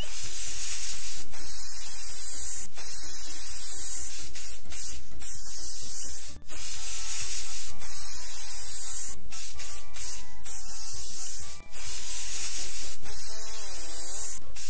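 Cartoon spray-paint sound effect: a loud, steady hiss of paint spraying, in three long blasts separated by two brief breaks.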